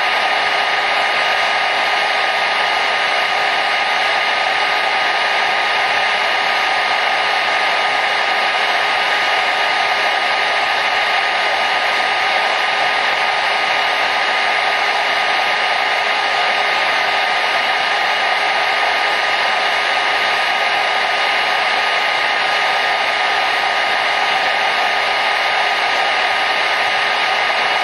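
Hair dryer running steadily: an even, loud rush of air with a faint motor whine, unchanging throughout.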